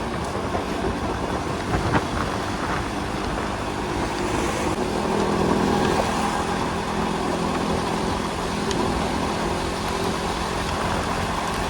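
Motorcycle engine running steadily under way, with wind and road noise; the engine note swells slightly around five seconds in.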